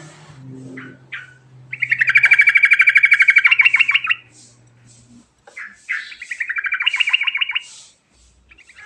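Yellow-vented bulbul (trucukan) singing its rolling song: a few short notes, then two long rapid trills of about two seconds each, separated by a brief pause. A faint low hum lies under the first half.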